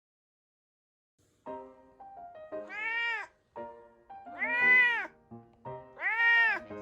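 Domestic cat meowing three times, each meow about a second long, rising and then falling in pitch, over background music that starts about a second and a half in.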